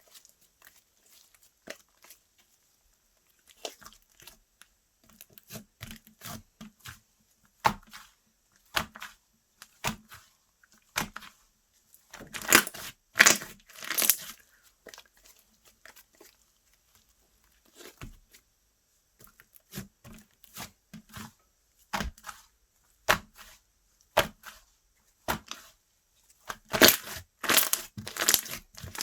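Slime being squeezed, stretched and poked by hand, giving irregular sharp clicks, pops and crackles with short quiet gaps between them. The sounds come in denser, louder runs about twelve seconds in and again near the end.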